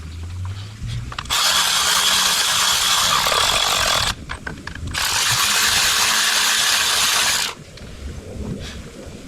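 A power tool run in two loud bursts of about three seconds each, with a short pause between, giving a steady hissing noise.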